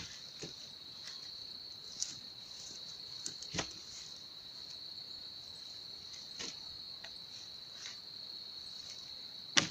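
Crickets trilling in one steady, continuous high-pitched tone. A few scattered knocks and clicks cut across it, the loudest just before the end.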